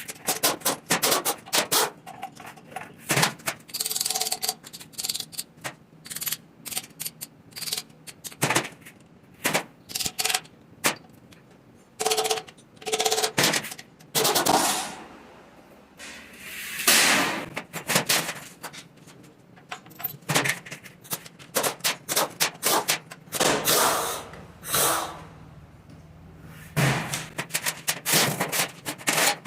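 Hand tools working on metal engine parts: irregular runs of rapid clicking and sharp metal knocks and clinks, some with a short ringing tone.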